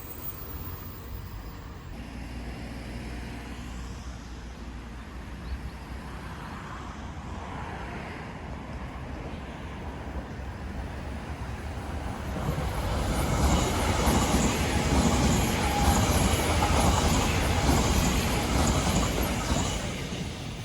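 Odakyu Line electric train approaching and passing a level crossing: a low steady rumble that swells about twelve seconds in as the train draws close and stays loud while it runs past.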